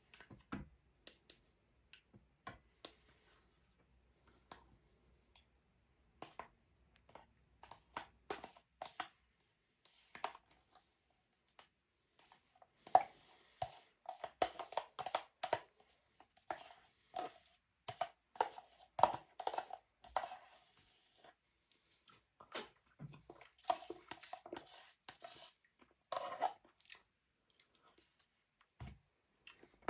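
A person eating curd and honey close to the microphone: soft chewing and mouth sounds with scattered small clicks, coming in irregular bursts that are busiest in the middle and latter part.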